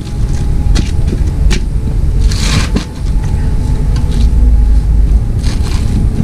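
A motor vehicle running with a heavy low rumble, with several sharp knocks.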